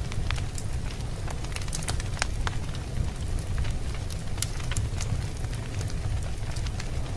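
Wood fire burning in a fireplace: a steady low rumble of flames with irregular sharp crackles and pops, a few every second.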